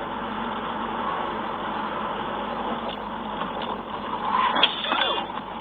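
Steady noise of a car on the road, with a louder stretch and a few falling pitched sounds about four and a half seconds in.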